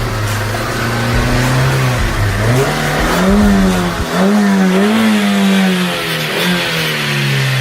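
Car engine revving, its pitch rising and falling several times in a row.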